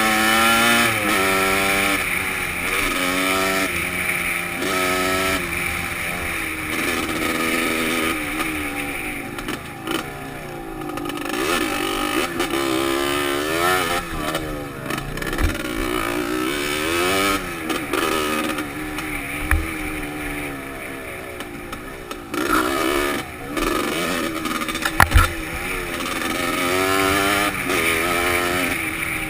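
Dirt bike engine heard from a helmet-mounted camera, its pitch rising and falling again and again as the throttle opens and closes and the gears change, with wind noise on the microphone. A few sharp knocks stand out, the loudest about 25 seconds in.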